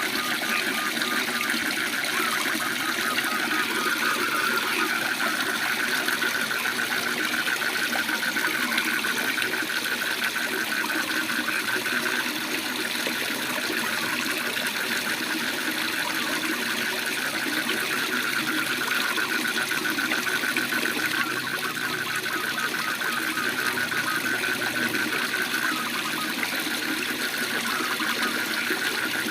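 Steady rush of a waterfall, with a chorus of frogs trilling rapidly over it, the trills fading and returning.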